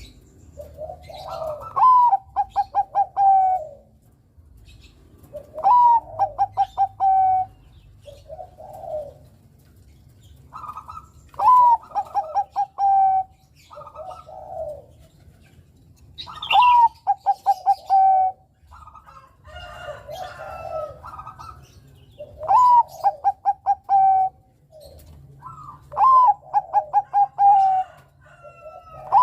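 Bangkok-type zebra dove (perkutut) singing its cooing song six times over. Each phrase is a rising opening coo followed by a quick run of short clipped coos, with softer coos in between.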